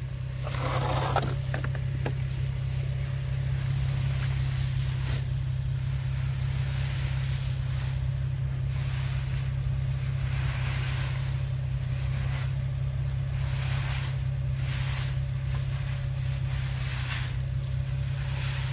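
A car engine idles steadily with a constant low hum. Over it come short, recurring rustles and scrapes of dry leaves being pulled out from behind a loose front bumper.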